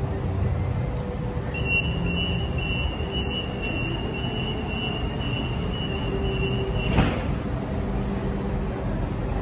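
Steady rumble from a double-decker electric train standing at the platform, with road traffic and a faint steady hum. A high steady tone sounds for about five seconds, then one sharp knock about seven seconds in.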